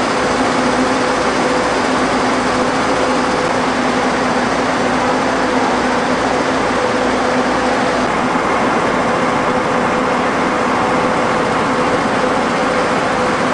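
Standing electric commuter train's onboard equipment running: a steady whirring hum with a low drone held under it, unchanging throughout.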